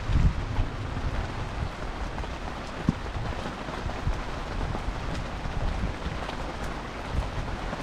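Heavy rain falling on the street: a steady hiss with scattered sharp drop ticks, one louder about three seconds in, over an uneven low rumble.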